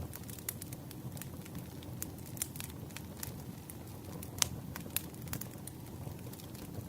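Campfire burning, a steady low rumble of flames with irregular crackles and wood pops, one louder pop about four and a half seconds in.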